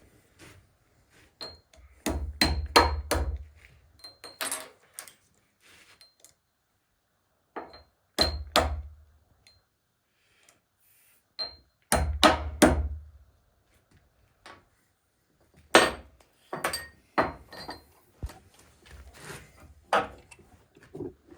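Hammer blows on metal transmission parts, in bursts of several quick strikes with pauses between, some blows leaving a short metallic ping.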